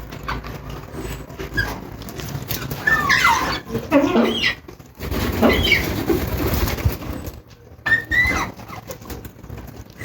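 Lord Derby's parakeet giving a handful of short calls that bend up and down in pitch, spaced apart by gaps of a second or more.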